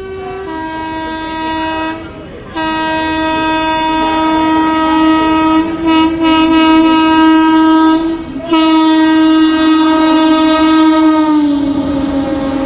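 WAP-7 electric locomotive's air horn sounding as the express approaches: a short blast, then two long blasts, the pitch dropping slightly near the end as it passes. The rush and clatter of the passing train rise after the horn stops.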